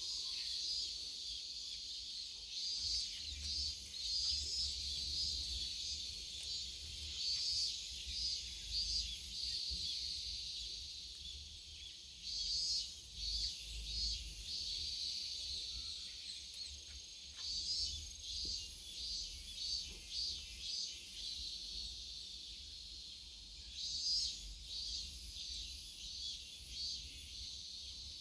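Cicadas singing in a summer chorus: a high, pulsing buzz that swells and fades several times, with a low rumble underneath.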